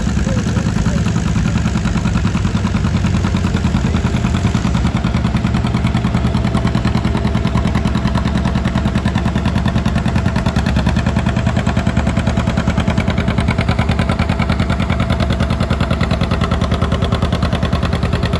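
Antique farm tractor engine running steadily with a rapid, even exhaust beat.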